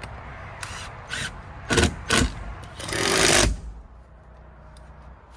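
Power drill driving a screw into wood: a few short bursts, then a longer run of about half a second around three seconds in.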